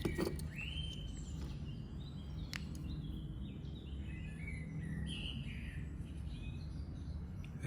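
Birds chirping in the background over a steady low hum, with a sharp click right at the start and another about two and a half seconds in.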